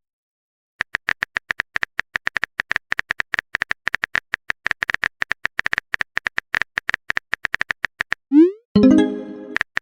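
Phone keyboard typing sound effect: a fast, irregular run of light clicks for several seconds. Near the end it is followed by a short rising pop and a synthesized message-alert tone.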